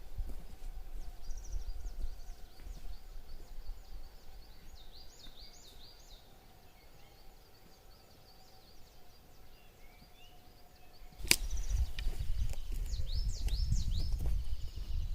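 Small birds chirping in short, quickly rising and falling notes. About eleven seconds in, a sharp click is followed by a low rumble that becomes the loudest sound.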